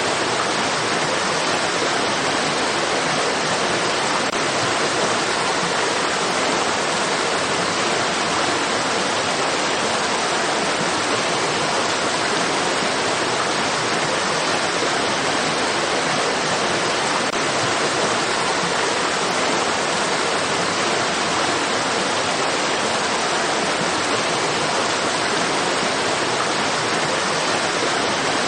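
Steady, continuous rushing of running water, like a stream or small waterfall, an even hiss-like wash with no change or breaks.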